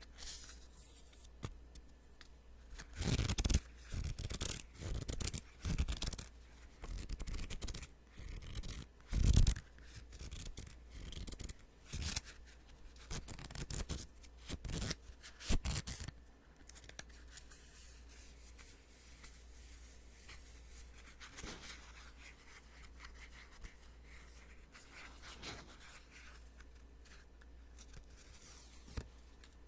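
Sticky notes being peeled off and handled close to the microphone: a run of short crackly peels and paper rustles from about three seconds in, thinning out to faint occasional rustles after about sixteen seconds.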